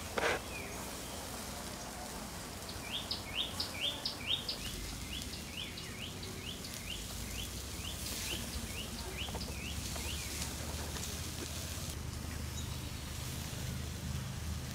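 A bird calling in a long run of quick, high, down-slurred notes, about three a second, starting about three seconds in and stopping around ten seconds, loudest at first. A short sharp knock sounds right at the start.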